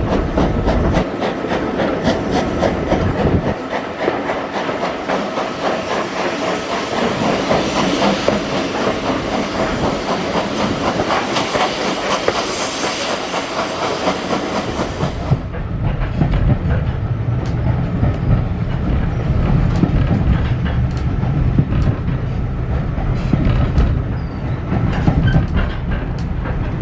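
British Railways Mk1 coach running on the line, with wheels clicking over the rail joints under a steady rushing noise. About halfway through, the high hiss cuts off suddenly and a deeper rumble from the coach takes over.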